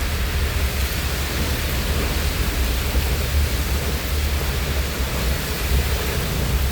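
Heavy rain pouring down in a strong wind: a loud, steady hiss of rain over a constant low rumble.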